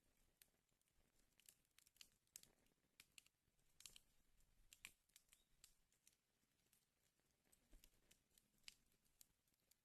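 Wood fire crackling in a fireplace: faint, irregular snaps and pops over a low hiss, a small cluster of louder pops around the middle.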